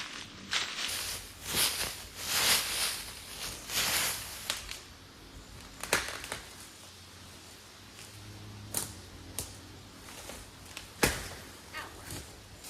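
Gear being handled and rustled: several swishing rustles in the first few seconds, then scattered clicks and knocks, the sharpest about eleven seconds in.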